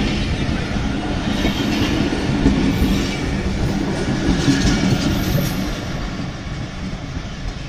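Passenger coaches of a departing train rolling past, their wheels running over the rails in a steady clattering rumble that fades as the last coach draws away near the end.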